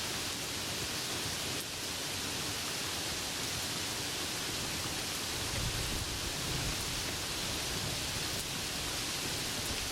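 Steady, even hiss of heavy rain falling. A brief low rumble of thunder swells about halfway through.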